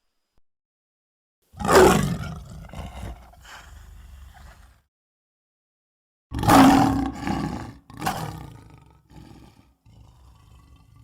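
Sweetums, the Muppet monster, roaring in a performer's voice: one loud roar about a second and a half in, a second about six seconds in, then shorter, quieter growls near the end.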